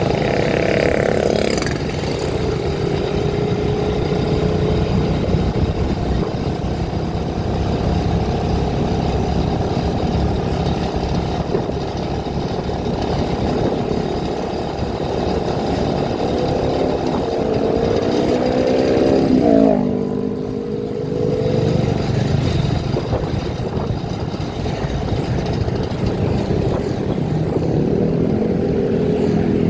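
A motor vehicle's engine running on the move over a steady rush of road and wind noise. The engine pitch climbs for a few seconds, drops suddenly about two-thirds of the way through, and climbs again near the end.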